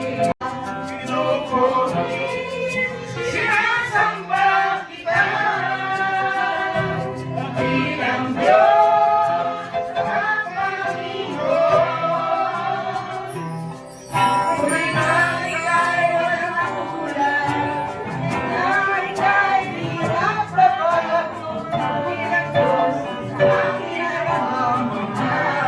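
Group of voices singing a gospel worship song over instrumental accompaniment, with light high percussion ticking along. The music drops out for an instant just after the start, and dips and comes back in about halfway through.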